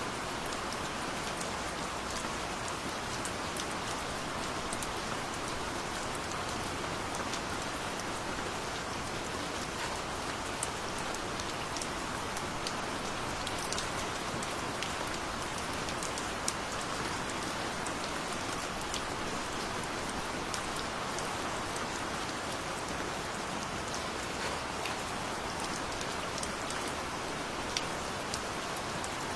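Steady rain with scattered individual drops ticking on a surface.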